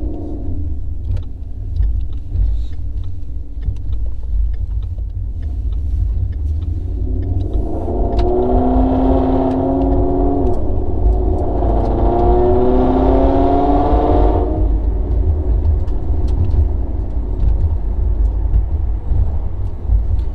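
2017 Mustang GT's 5.0 V8, fitted with headers, a catted exhaust and an intake, accelerating through the automatic's gears over a steady low road drone. The engine note climbs from about eight seconds in, drops at an upshift about ten seconds in, climbs again and eases off a few seconds later.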